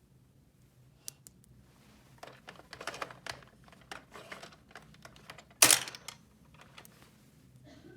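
Small plastic toy pieces being handled: scattered light clicks and rustling, busiest in the middle, with one loud sharp knock a little past halfway.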